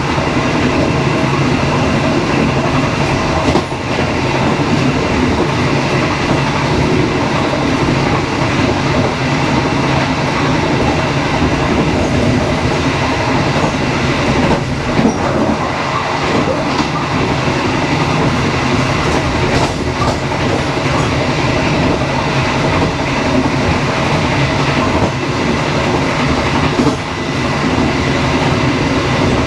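Dharmawangsa passenger train running steadily on the line, a continuous loud rumble with occasional sharp clacks of the wheels over rail joints.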